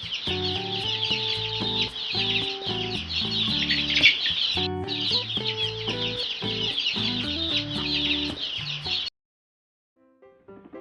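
A flock of chickens clucking continuously over background music, with a short break about four and a half seconds in; both cut off suddenly about nine seconds in.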